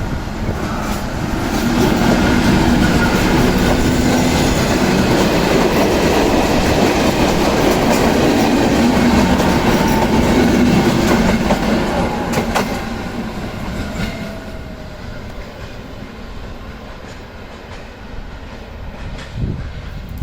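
Class 460 electric multiple unit train moving along a station track. It grows louder about two seconds in, holds for about ten seconds, then fades away, with a sharp click partway through.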